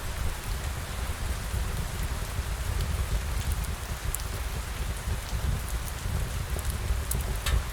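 Steady rain falling, with a low rumble underneath and scattered short sharp ticks of drops, one louder near the end.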